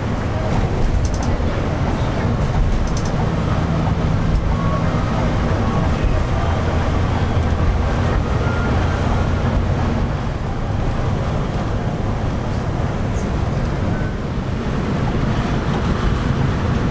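Steady drone of a Scania K360i coach on the move, heard from inside the cabin: engine hum and road noise.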